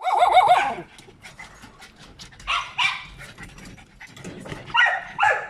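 Dogs barking in short high-pitched bursts: a quick run of barks at the start, two more about two and a half seconds in, and several near the end.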